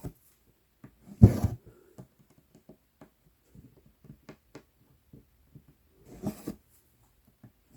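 Cross-stitching at close range: a needle ticking through Aida cloth, and two louder rasps of embroidery floss being drawn through the fabric, about a second in and again near the end.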